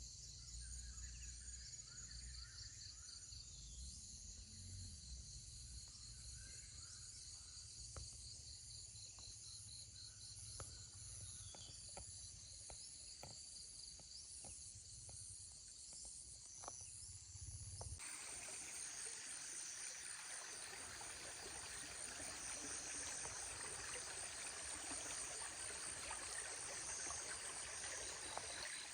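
Faint chorus of insects chirping in steady pulsing trills, over a low rumble with scattered clicks. About two-thirds of the way through, the rumble cuts off abruptly and an even rushing hiss takes its place, with the insect trills continuing over it.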